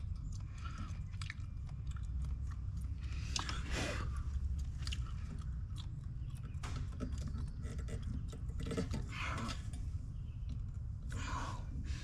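Hand work on metal air-line fittings: small scattered clicks and taps with brief scraping and rustling, over a steady low rumble.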